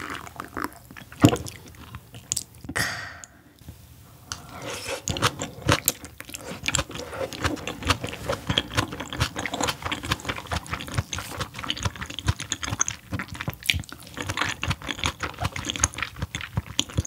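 Close-miked mouth sounds of a person chewing raw fish sashimi: rapid wet clicks and smacks. They are dense and continuous from about four seconds in, after a sharp click about a second in and a short rush of noise near three seconds.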